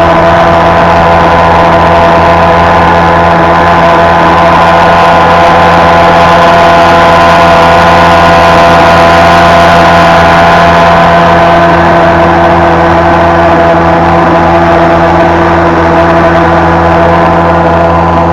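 Vikhr two-stroke outboard motor with a water-jet nozzle, running at a steady, unchanging speed.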